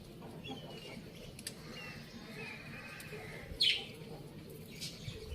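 Faint bird chirps with one short, louder call that drops in pitch about three and a half seconds in.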